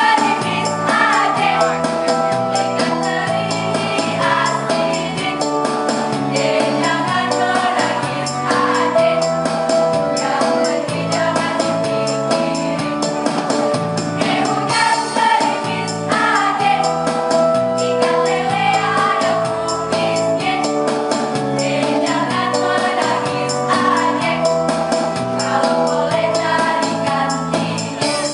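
A choir singing a song in parts, over a steady, dense beat of jingling percussion.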